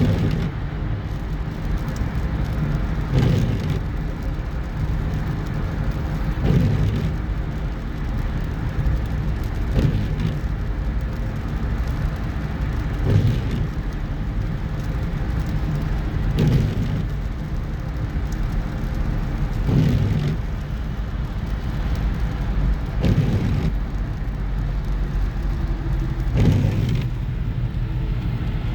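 Car driving, with steady road and engine rumble heard from inside. A short louder sweep or thump repeats evenly about every three seconds.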